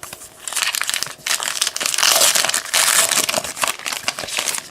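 Plastic wrapper of a trading-card hanger pack being torn open and crinkled by hand: a dense crackling, loudest about two to three seconds in.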